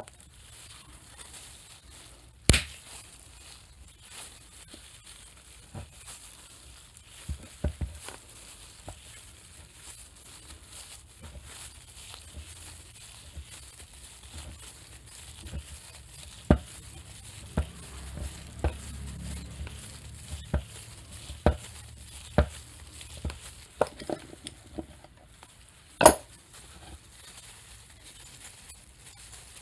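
Scattered metal clicks and knocks of a bearing puller being fitted and worked on the bearing of a cut-off saw's motor armature, with two sharp, much louder knocks, one about two seconds in and one near the end.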